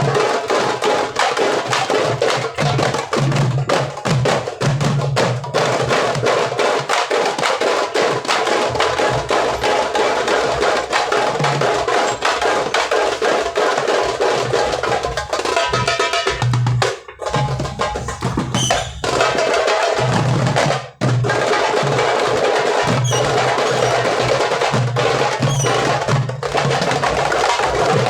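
Several darbukas (goblet drums) played together in a fast, dense rhythm, deep bass strokes under sharp, cracking rim strokes. The playing stops briefly twice, about two-thirds of the way through, then comes back in.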